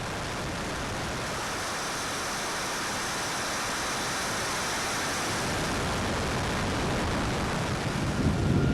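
Distant twin JetCat P120 model gas turbines: a steady jet rush with a faint high whine, slowly growing louder.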